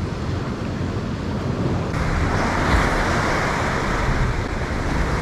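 Ocean surf washing against the rocky shore, with wind buffeting the microphone. The wash grows louder about two seconds in and stays up.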